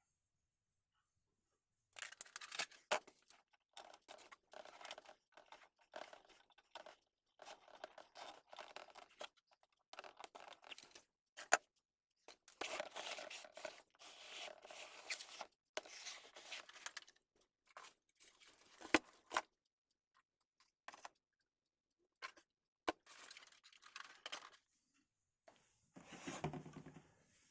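Paper or plastic packaging being torn and handled by hand, in irregular scratchy bursts with a few sharp clicks.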